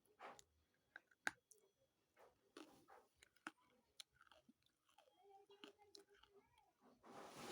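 Close-up chewing and crunching of pieces of Nakumatt, which is very gritty: quiet, irregular crisp crunches and clicks from the mouth.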